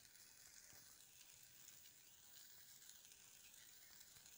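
Near silence, with a faint sizzle of onion and spice masala frying in oil, and a few faint ticks.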